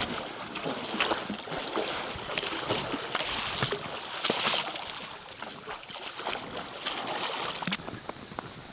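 Creek water splashing and sloshing as people wade through it, with irregular splashes over the flow of the water, the busiest stretch about halfway through.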